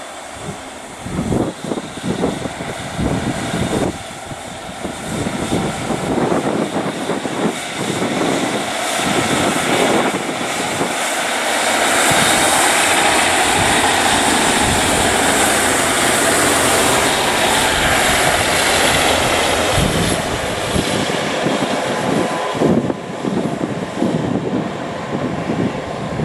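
Diesel multiple unit running through the station: its engine and wheel noise swells to a loud steady rush for several seconds in the middle, then eases. Wind buffets the microphone at the start and near the end.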